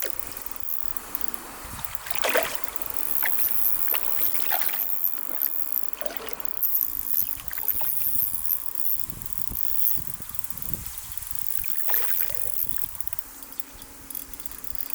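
River water splashing and sloshing in irregular bursts over the steady rush of the stream, as a hooked rainbow trout about 60 cm long is played and brought toward the landing net.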